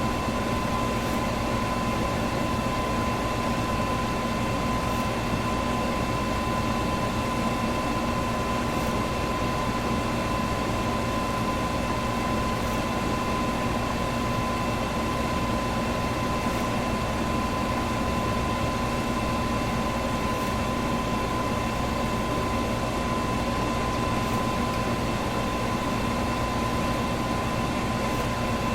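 Electric box fan running steadily: an even whoosh of moving air with a constant motor hum and a thin steady whine. A faint tick recurs about every four seconds.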